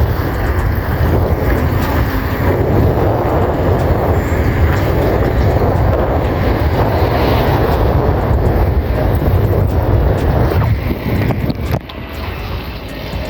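Wind rushing over a handheld camera's microphone on a moving bicycle, a loud steady buffeting that eases somewhat near the end.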